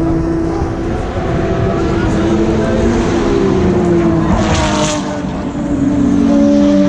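Racing car engines passing through a chicane, several at once, their notes falling in pitch as they brake and change down. A brief rush of hiss comes about four and a half seconds in.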